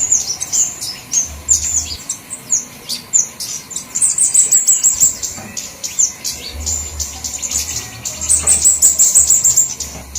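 Flowerpeckers calling: many overlapping high, thin chips and twitters coming thick and fast, with a thinner patch near the middle.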